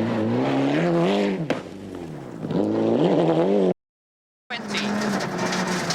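Rally car engine heard from inside the car, revving up through the gears with its pitch rising and falling at each shift, and easing off briefly about two seconds in. The sound cuts out suddenly just before four seconds. After a short gap a rally car engine runs at steadier revs.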